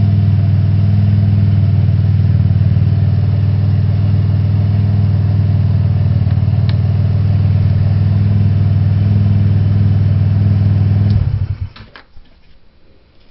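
Roketa scooter engine idling steadily through an NCY aftermarket exhaust, then shut off about eleven seconds in. A couple of faint clicks follow.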